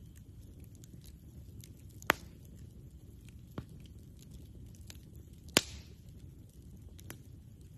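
Campfire burning, with scattered faint crackles over a low steady rumble. Two sharp, loud pops of burning wood come about two seconds in and a little past five seconds, with softer snaps between them.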